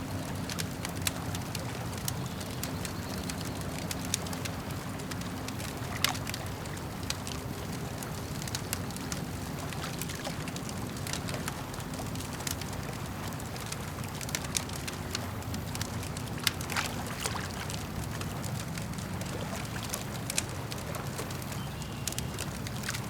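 Campfire crackling with irregular sharp snaps and pops, a few much louder than the rest, over the steady lapping and sloshing of lake water.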